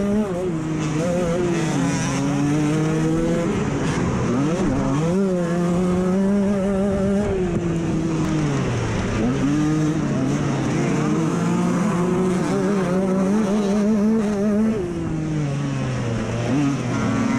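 Off-road motorcycle engine revving hard and easing off over and over, its pitch climbing and then dropping sharply several times as the throttle is worked around the track.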